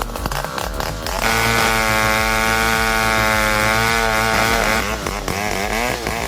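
Two-stroke chainsaw engine running at high revs, holding a steady note from about a second in until about four and a half seconds, with a slight waver in pitch. Before and after that stretch the engine revs are less steady.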